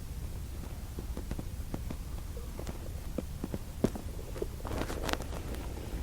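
Low steady room hum with scattered small clicks and taps, and a brief rustle about five seconds in.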